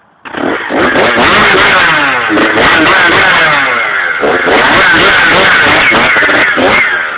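Motorbike engine revving hard and close, its pitch rising and falling again and again; it cuts in suddenly about a quarter second in.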